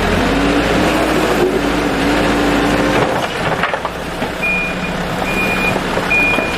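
A vehicle's reversing alarm beeping at a steady high pitch, a little more than once a second, starting about two-thirds of the way in, over the low hum of a running engine.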